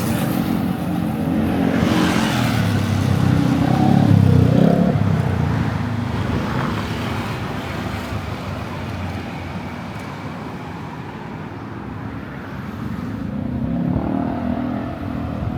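Road traffic: motor vehicle engines passing close by, loudest about four seconds in, then fading before another vehicle approaches near the end.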